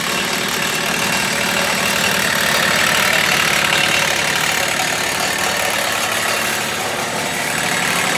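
An engine running steadily at idle, a constant even noise with a fast low pulse.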